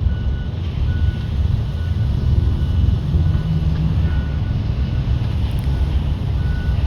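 Military transport plane's engines droning as it flies round to come back: a steady, loud low rumble with a faint high whine above it.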